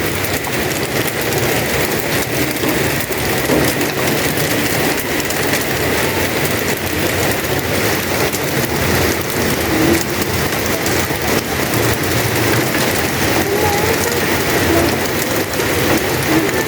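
Heavy rain falling steadily, a dense, even hiss of drops hitting the ground and surfaces.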